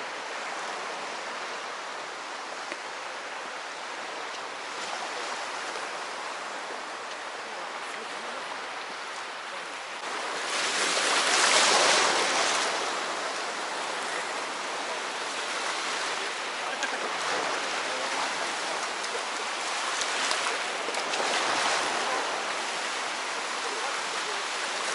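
Sea waves washing onto the shore in a steady rush, swelling loudest about ten seconds in as a bigger wave breaks, and again more gently near the end.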